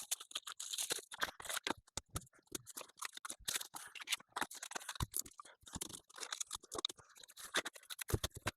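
Rapid, irregular scratching and clicking of wood being worked and handled by hand; no steady sander motor is heard.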